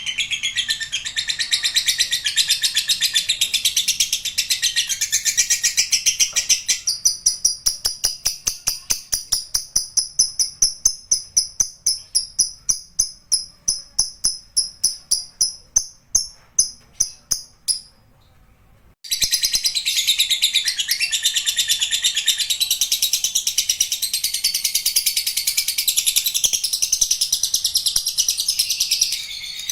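Lovebird singing a long 'ngekek' chatter: fast, high-pitched continuous trilling that about a third of the way in turns into a run of evenly spaced repeated notes at roughly three a second, stops for about a second, then resumes as fast trilling.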